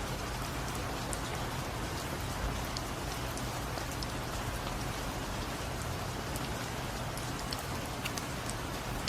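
Steady rain falling, an even hiss with scattered individual drops ticking, over a low steady hum.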